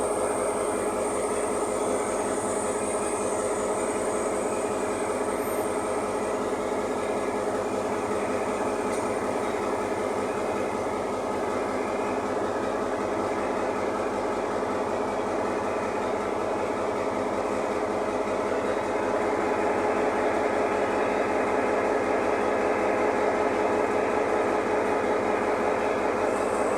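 GM EMD G22 diesel-electric locomotive running at idle, a steady engine hum that grows a little louder about two-thirds of the way through.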